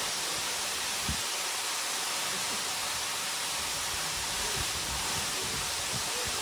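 Secret Falls plunging into its pool: a steady, even rush of falling water.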